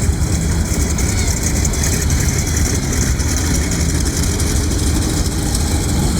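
Radial piston engines of WWII fighters (Hellcat, Corsair, Bearcat, all Pratt & Whitney R-2800 Double Wasps) running at taxi power, a steady low rumble with no change in pitch.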